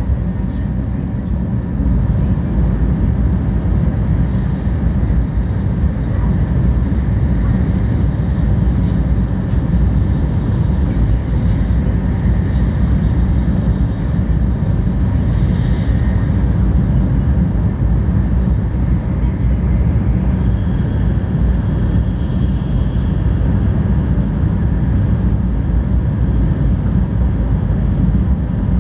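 Cabin noise of a 700-series Tokaido Shinkansen train running: a steady low rumble of wheels and running gear heard from inside the passenger car, growing a little louder about two seconds in.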